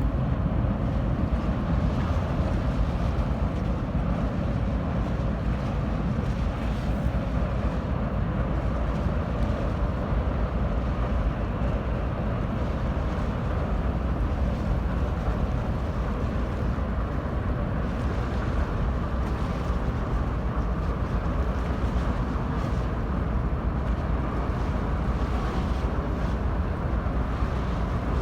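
Steady low rumble of the ferry Katsuragi's engines heard on board, with wind on the microphone.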